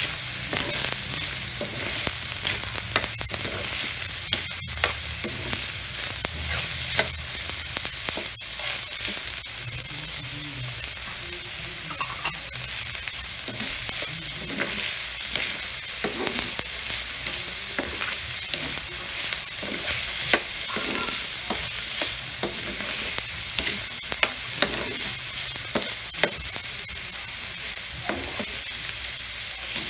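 Ground beef and corn kernels sizzling in a wok while a spatula stirs and scrapes through them in many short strokes over a steady hiss; black beans go in partway through.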